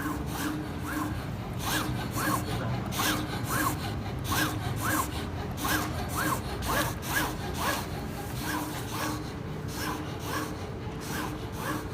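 Automatic decal cutting plotter cutting: its motors give short whines that rise and fall in pitch, one to two a second, each with a light scratchy rasp as the blade carriage moves through the cut.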